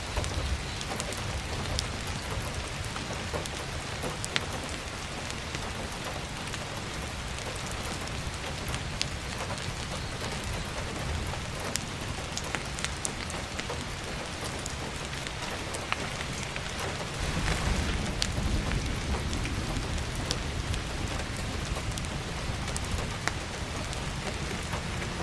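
Steady heavy rain pattering on an attic skylight, with scattered sharp ticks through it. A low rumble swells about 17 seconds in.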